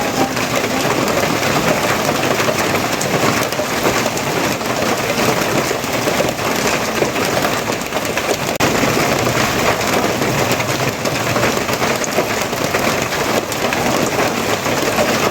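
Steady heavy rain: a dense, even hiss of falling drops with many small taps.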